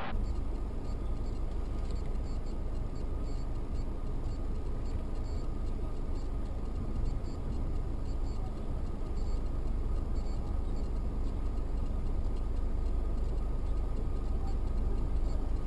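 Car driving, a steady low rumble of engine and road noise with faint, regular high ticks over it; it cuts off abruptly at the end.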